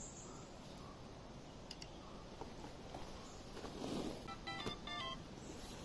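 A quick series of short electronic beeps, several tones at once, about four and a half seconds in, over a faint steady background.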